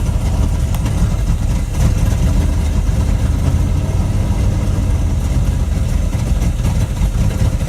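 1978 Dodge truck's engine idling loudly on a cold start, struggling to hold its idle.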